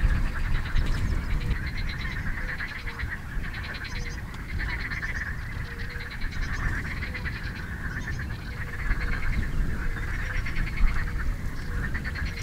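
Many birds calling at once, a continuous chorus of overlapping pulsed calls over a low rumble.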